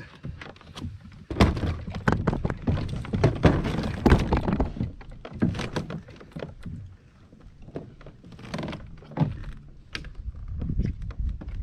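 Repeated hollow knocks and thumps on a kayak, the kind made as paddles and gear bump its hull. They are densest and loudest from about one to five seconds in.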